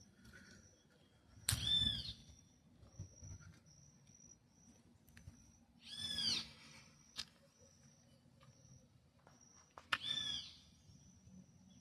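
A bird calling three times, each a short call that rises and falls in pitch, about four seconds apart, over a faint on-and-off high steady tone.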